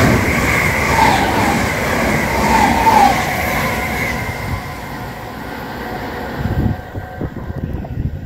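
Electric multiple-unit train passing close at speed: a steady rush of wheels on rail with two brief squealing tones. The rush eases after the middle, and near the end a quick run of wheel thumps comes as the last bogies pass.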